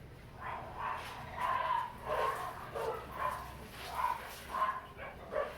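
A dog barking repeatedly, about nine short barks roughly half a second apart, over a steady low hum.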